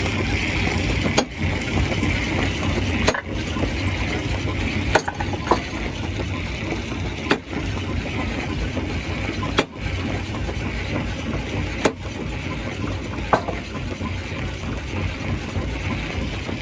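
Stone crusher machine running steadily, with sharp knocks every couple of seconds as rocks are broken.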